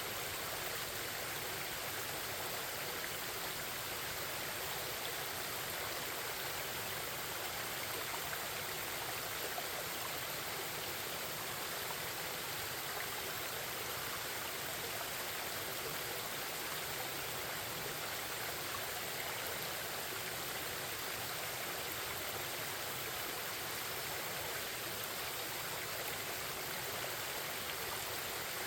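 Forest stream babbling and flowing over rocks: a steady, even rush of water.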